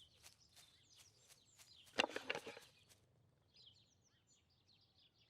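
Faint outdoor background of birds chirping in high, short calls. In the first few seconds there is a run of light clicks or taps, with a brief louder sound about two seconds in.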